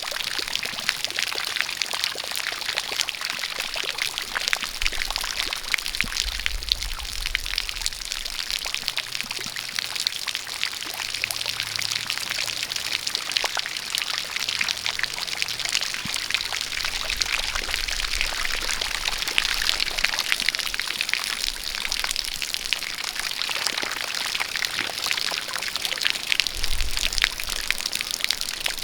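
Rain falling together with a jet of water pouring and splashing: a steady, even hiss dotted with many small drop ticks.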